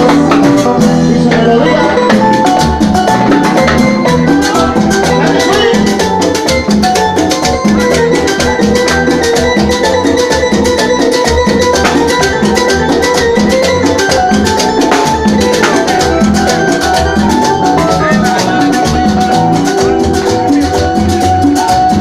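Live Latin dance band playing son-style salsa music, with a drum kit and percussion keeping a steady beat under held melodic notes.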